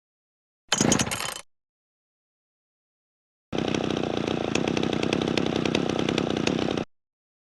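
Two separate tool sound effects: a short burst of under a second, then a motorised power tool running steadily for about three seconds before cutting off.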